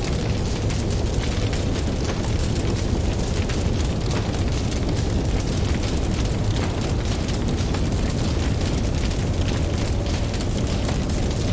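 Campfire crackling with frequent small pops over a steady low rumble of ocean waves.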